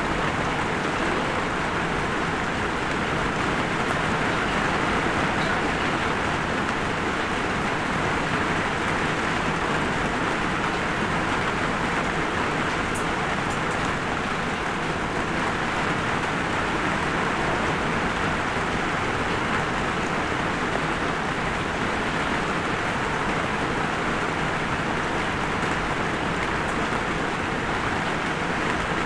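Light rain falling: a steady, even hiss with a few faint drop ticks.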